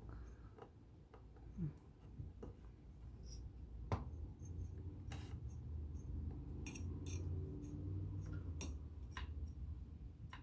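Small metal parts of a vintage all-metal sewing machine clicking and clinking irregularly as they are handled and fitted back in place, with the sharpest click about four seconds in.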